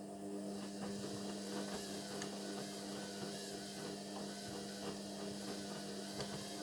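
Indesit washing machine running a synthetics cycle: a steady electric hum from its motor or pump, with irregular rattling and swishing from the drum.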